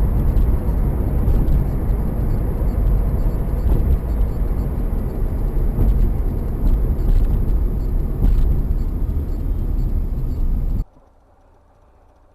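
Steady, loud rumble of a moving vehicle: road and engine noise as picked up by a dashcam. It cuts off abruptly near the end.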